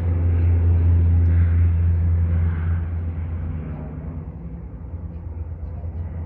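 Small propeller aircraft engine droning with a low, even pitch, fading away over the last few seconds as the plane moves off.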